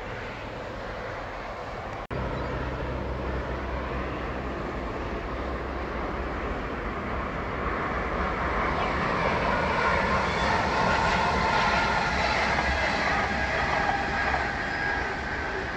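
A train running past on the line, with a steady low hum under rushing wheel noise that grows louder toward the middle and stays loud. The sound cuts out for a moment about two seconds in.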